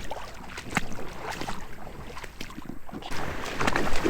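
Scattered knocks and clatters on a kayak over water and wind noise, the wind on the microphone growing stronger in the second half.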